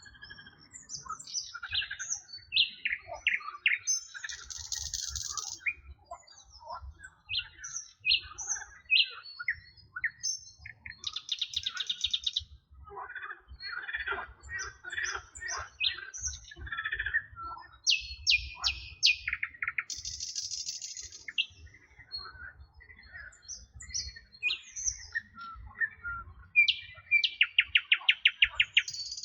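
A chorus of several songbirds chirping, whistling and trilling, with buzzy notes and fast rattling trills mixed in. A fast trill of about ten notes a second near the end is the loudest.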